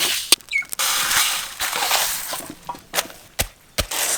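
A rustling hiss for about a second and a half, with several sharp knocks or clacks scattered around it.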